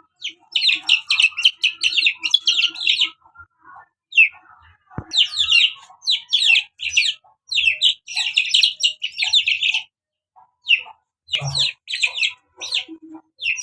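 Birds chirping in quick runs of high, rapid calls, with short pauses about four seconds in and again about ten seconds in.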